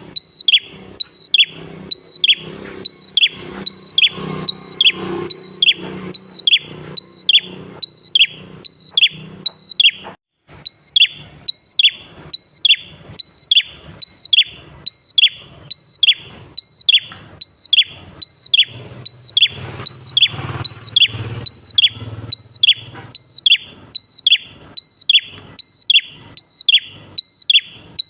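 Prenjak klawu (a small Indonesian songbird) calling over and over in a loud, steady rhythm, about one and a half calls a second. Each call is a short high note that drops in a quick downward sweep. There is a brief break about ten seconds in.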